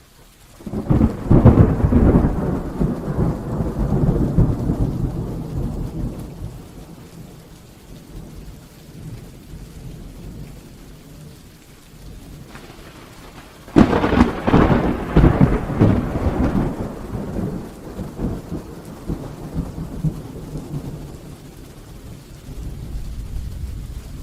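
Heavy rain falling steadily, with two long peals of thunder: one rolls in about a second in and dies away over several seconds, and a second, sharper crack and rumble comes about halfway through and fades slowly.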